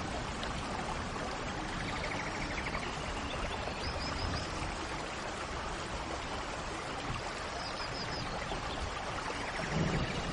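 Steady rain falling, with a few short bird chirps and a brief trill over it. A low rumble of thunder begins just before the end.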